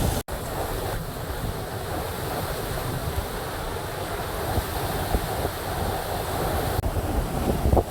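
Heavy rain with rushing water, a steady noise, and wind buffeting the microphone.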